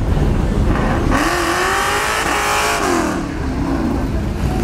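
Cars driving through an intersection, with one engine revving hard from about a second in, its pitch climbing and then dropping away around three seconds, over a steady low traffic rumble.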